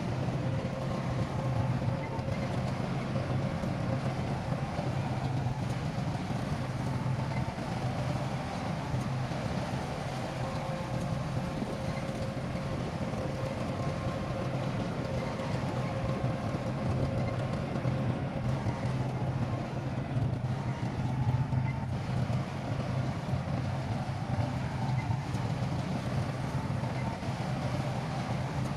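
Heavy diesel engine of earthmoving equipment running with a steady drone, with no sharp knocks or changes in pitch.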